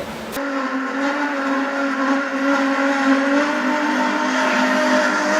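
A short rushing noise cuts off about half a second in, then an engine runs steadily with a constant-pitched whine.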